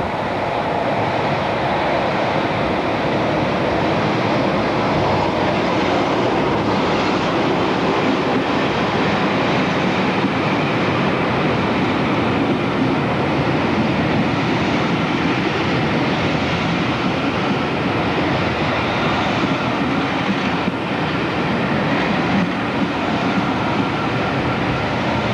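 Diesel train running close by: a steady, loud rumble of engine and rolling stock.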